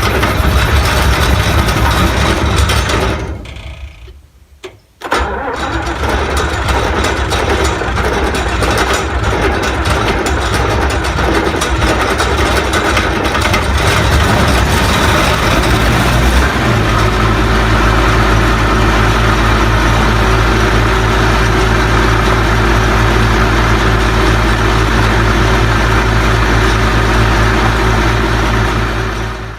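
John Deere 7720 Titan II combine's diesel engine on its first start of the year, after sitting since the last season. It runs rough and uneven at first, with the sound dropping away briefly about four seconds in. Past the halfway point it settles into a steady, even run.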